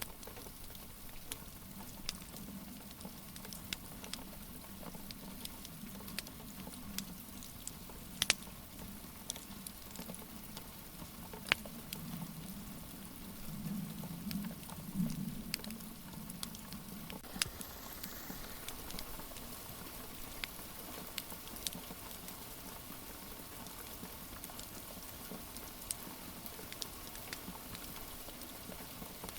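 Steady rain hiss with a crackling wood fire, its scattered sharp pops and snaps. A low rumble swells through the first half and fades out after about sixteen seconds.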